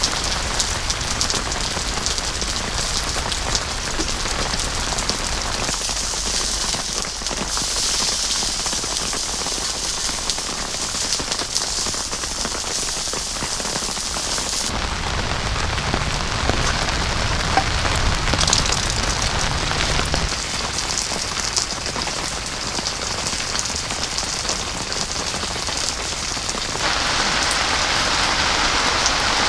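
Heavy rain falling steadily in a downpour. Its sound changes abruptly several times, as between different recordings.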